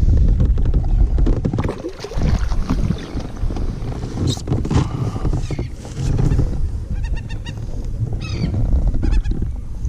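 Birds calling over steady low wind-and-water rumble on open water. About four seconds in comes a sweeping call, near seven seconds a quick run of repeated notes, and more falling calls follow toward the end.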